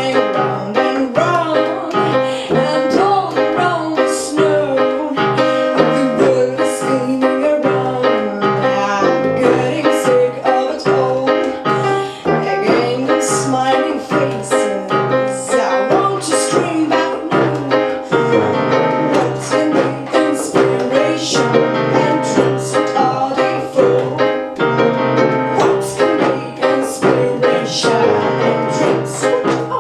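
A rock band playing live, with keyboard or piano to the fore over a steady drum beat, and a voice perhaps singing in places.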